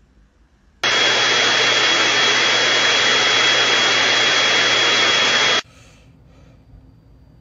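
A loud, steady rushing noise with a high whine running through it, like a motor or blower. It starts suddenly about a second in and cuts off suddenly about five and a half seconds in.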